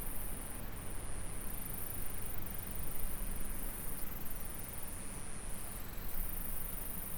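An insect sings a continuous high-pitched buzz that breaks off briefly about every two seconds, four times in all. Underneath is the steady rush of a flowing stream.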